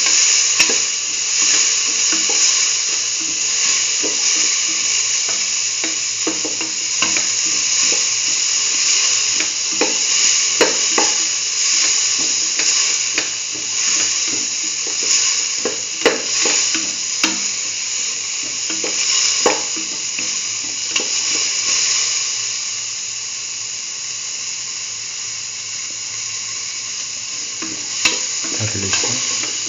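Diced chayote sizzling as it sautés in clarified butter (ghee) in a metal pan, with a spatula stirring and scraping, giving scattered sharp clicks against the pan.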